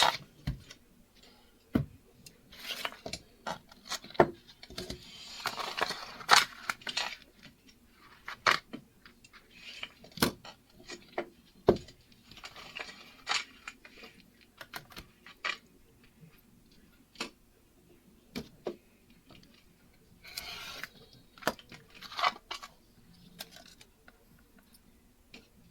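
A sheet of permanent adhesive vinyl being handled and cut to size: patches of crinkling rustle with scattered sharp clicks and taps.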